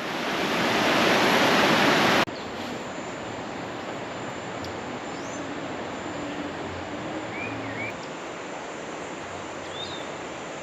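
River water rushing, loud for the first two seconds and then cut off abruptly. A fainter steady rush follows, with a few short high chirps.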